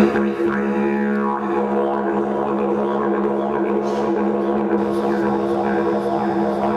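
Didgeridoo music: a steady low drone, its overtones shifting, with a sweep downward in the upper tones about a second in.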